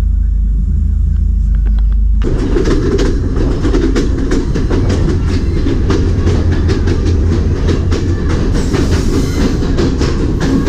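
Passenger train running on the line, heard from a carriage window. A low rumble gives way, about two seconds in, to the loud clatter of the carriage wheels clicking over the rail joints.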